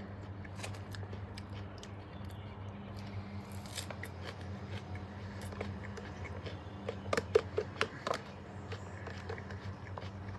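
A person chewing and crunching food close to the microphone, with scattered short clicks and a loud cluster of sharp crunching clicks about seven seconds in. A steady low hum runs underneath.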